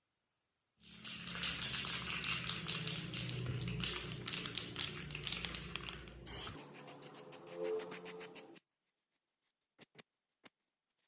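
A small motor starts about a second in and runs with a steady low hum under a dense, rapid rattling hiss. The hum stops about six and a half seconds in and the rattle about two seconds later, followed by a few separate clicks.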